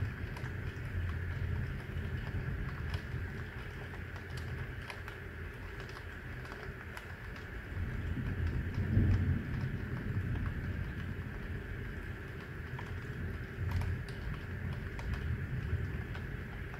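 Steady rain over a city, with scattered sharp ticks of drops and a low rumble underneath that swells to a peak about halfway through.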